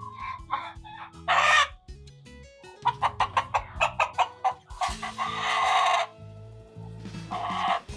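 Chickens calling over quiet background music: a quick run of clucks about three seconds in, then a long, loud call like a rooster's crow, with another shorter call near the end.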